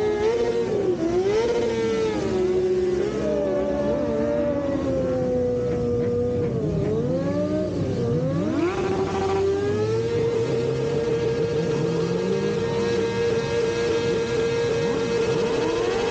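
Motorcycle engines revving, their pitch rising and falling, then one engine held at a steady high rev from about ten seconds in.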